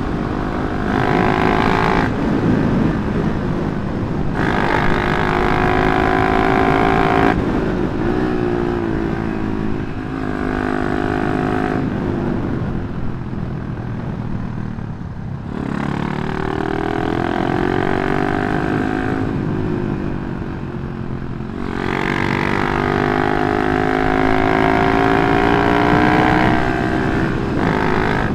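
Old Yamaha Jupiter MX single-cylinder four-stroke, bored to 177cc, running through a CLD C7 aftermarket exhaust while being ridden. The pitch climbs and drops with repeated throttle openings and gear changes, with a quieter spell around the middle.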